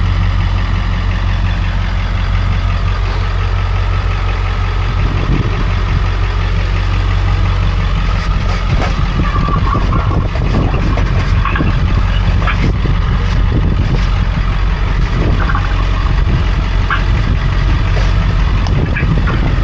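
Truck engine idling steadily, a constant low hum, with scattered short clicks and knocks over it in the second half.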